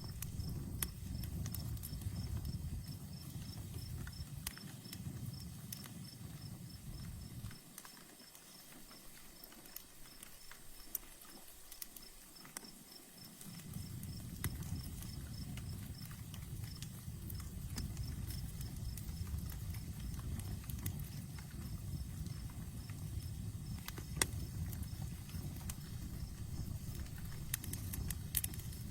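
Campfire crackling, with scattered sharp pops over a low steady rumble that fades out for about six seconds near the middle. A cricket chirps in a steady rhythm behind it.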